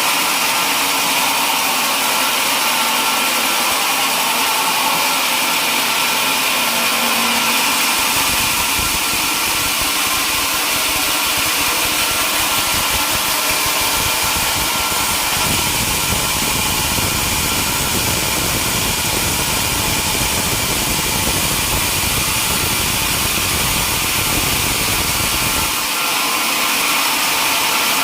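Sawmill running steadily with a high, hissing machine sound. A deeper rumble joins about eight seconds in and drops away near the end, as when the saw is cutting through a log.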